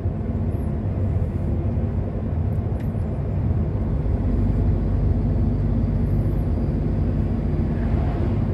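Truck's engine and road noise heard inside the cab while driving, a steady low drone that grows slightly louder about four seconds in.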